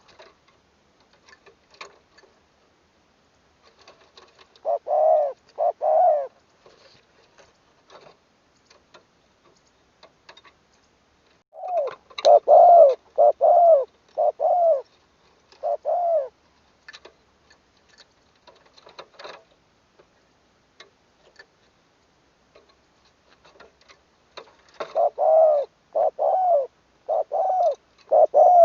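Spotted dove cooing: three phrases of repeated, evenly spaced coos, a short one about five seconds in, a longer one of about six coos a little before the middle, and another starting near the end. Faint clicks and ticks fall in the gaps between phrases.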